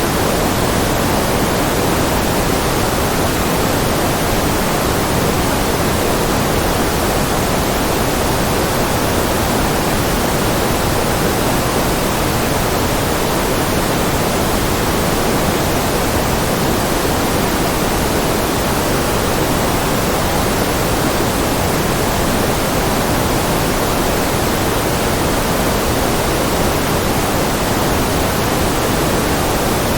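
Continuous electronic white-noise track: a steady, even hiss with no change in level, a little fuller in the lower-middle range than at the top.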